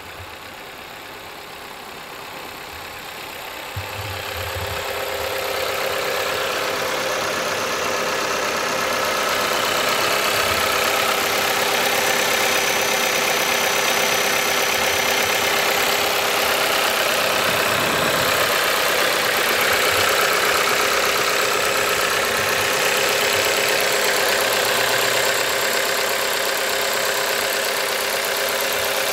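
Volkswagen Golf 1.4 TSI turbocharged four-cylinder petrol engine idling steadily, heard up close in the open engine bay. It grows louder over the first six seconds or so, then holds even.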